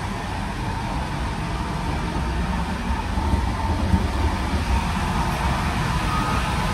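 Steady low rumble of a passenger train running at speed, heard from inside the carriage, with a faint steady whine over it.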